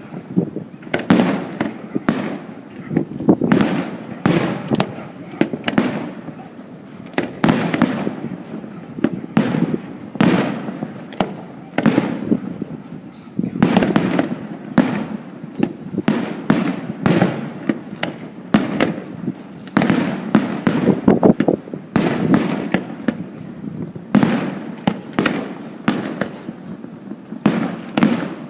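Aerial fireworks display bursting: an irregular run of sharp bangs, often several a second, over a continuous low rumble of overlapping detonations.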